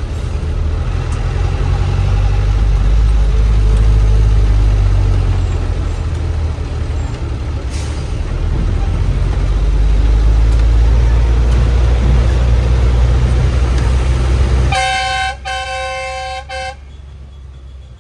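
Bus engine running with a heavy, steady low rumble. Near the end, a vehicle horn honks in three quick toots, and the rumble then falls much quieter.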